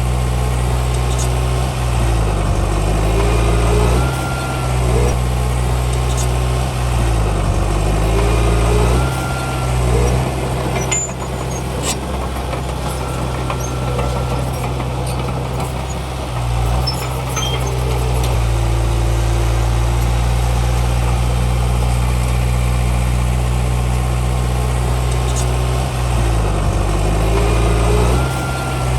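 Heavy diesel engine of earthmoving machinery running steadily. Its pitch swings down and back up a few times as the load changes.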